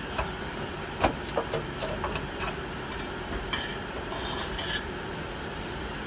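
Light knocks and clinks of tools and parts under the bus, then a scraping rub lasting about a second past the middle, as the old front air-suspension bag is worked loose.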